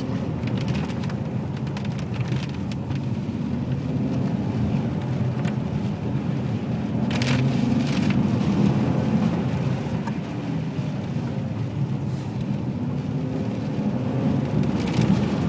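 Ferrari 599 GTB Fiorano's 6.0-litre V12 running at low revs at a slow pace, rising slightly about halfway through, over steady tyre noise on a wet road, with a few short crackles and knocks from the rough lane surface.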